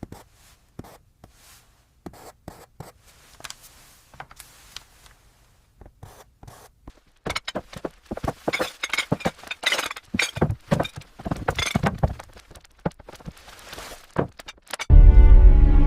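Scattered light knocks and clicks that turn into a busier clatter about halfway through. About a second before the end, loud music with a sustained low chord comes in over it.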